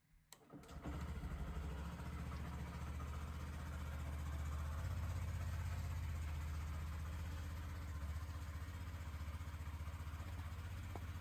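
Honda CB125F's single-cylinder engine starting with a click under a second in, catching at once and settling into a steady idle.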